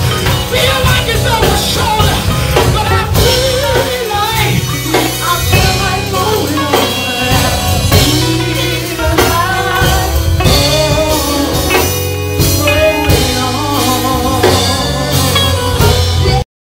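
Gospel praise music: singing over a band with drums, loud and steady, cutting off suddenly near the end.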